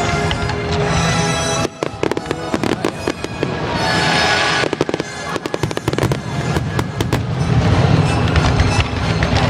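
Fireworks finale: a fast barrage of sharp bangs and crackles starting about two seconds in, thickening into dense, deep booming near the end, with music playing underneath.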